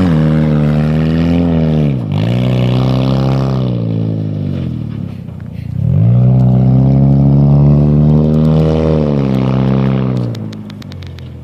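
Vehicle engine running hard under throttle, its pitch sagging, dipping sharply and climbing again twice, about two and six seconds in. It fades near the end.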